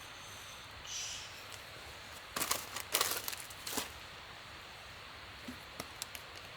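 Crinkling and rustling: a cluster of sharp crackles for about a second and a half in the middle, then a few light clicks near the end, over a steady faint hiss.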